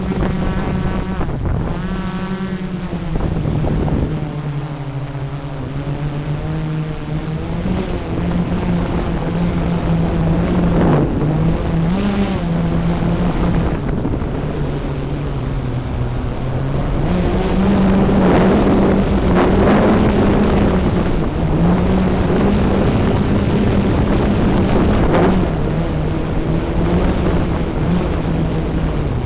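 DJI Mavic 3 Pro drone's propellers running with a steady buzzing hum. The pitch steps up and down several times as the motors change speed, and it gets louder for a stretch in the second half.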